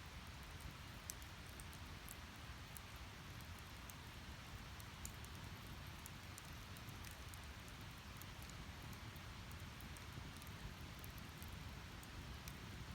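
Wood fire burning: a steady soft hiss of flames with many small sharp crackles and pops from the split firewood, scattered irregularly.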